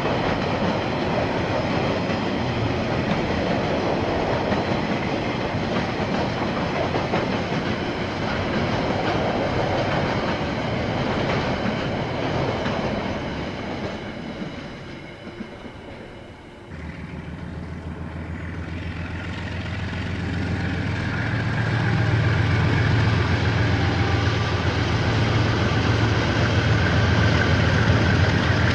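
A KiwiRail train's wagons rolling past on the rails with a clickety-clack, fading away. Then, after an abrupt cut, another train approaches with a steady low locomotive engine note that grows louder.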